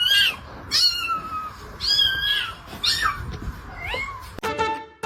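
A cat meowing repeatedly: about five high-pitched meows roughly a second apart, each rising and then falling in pitch.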